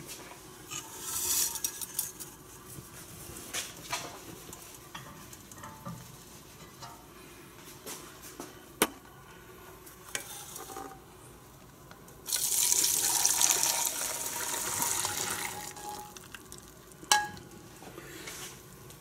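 Warm panna cotta milk mixture poured through a mesh strainer into a small bowl: a steady splashing pour lasting a few seconds past the middle, amid light clinks and knocks of utensils against dishes.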